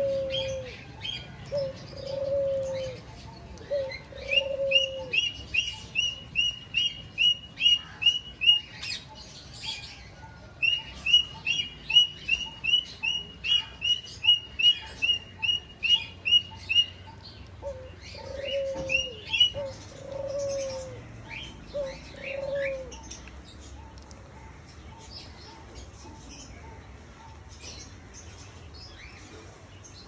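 Birds calling in an aviary: two spells of low cooing, and long runs of quick, high, evenly spaced chirps, about two or three a second, with scattered sharp clicks.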